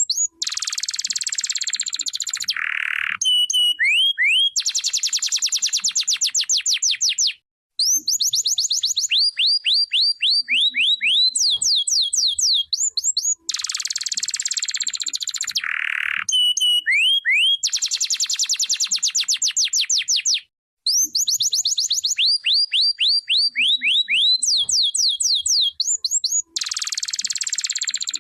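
Domestic canary singing in long, loud phrases of fast sweeping notes, buzzy rolls and trills. There are short breaks about seven and twenty seconds in, and the same song sequence comes round about every 13 seconds.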